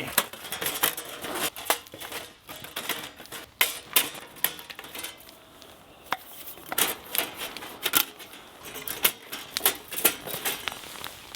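Sheet-metal reflector oven being assembled by hand: irregular metallic clicks, clinks and taps as its panels are fitted and pinned together.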